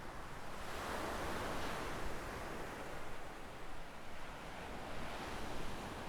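Small waves breaking and washing up a sandy shore. The surf swells about half a second in and eases off slowly, with a smaller wash later on.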